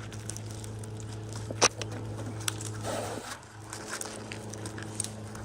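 Scattered knocks and crackles from a climber working his way down a dead spruce trunk, with one sharp loud knock about a second and a half in and smaller ones later, over a steady low hum.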